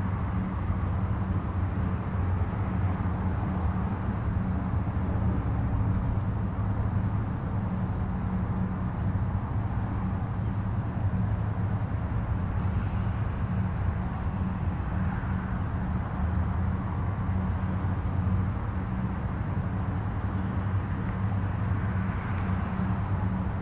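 Steady drone of distant highway traffic, mostly a low rumble, swelling a little twice as nearer or louder vehicles go by, about two-thirds of the way in and near the end.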